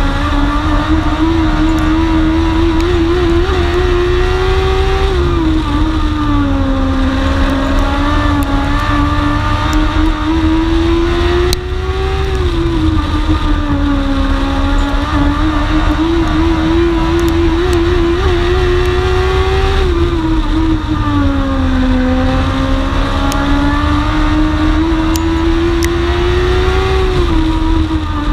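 Onboard sound of a motorcycle-engined dwarf race car at racing speed on an oval track. The engine note climbs along each straight and drops sharply as the driver lifts for the turns, about every seven to eight seconds, over a heavy low rumble.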